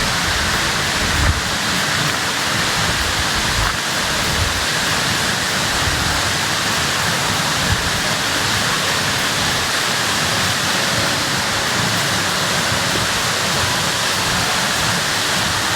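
Steady rush of a waterfall, with continuous even noise of falling and churning water. A few faint low thumps of wind on the microphone.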